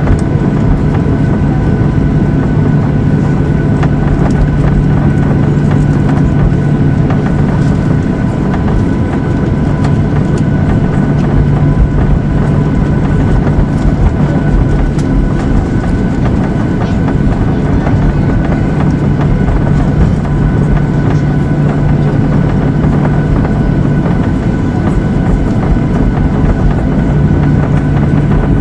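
Airliner cabin noise: a steady, loud hum with a strong low drone and a few thin, constant whining tones above it, from the engines and air system heard inside the passenger cabin.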